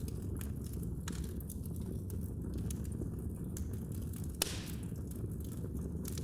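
Wood fire in a fireplace crackling: a steady low rumble of flames with scattered small crackles and one louder pop about four seconds in, followed by a short hiss.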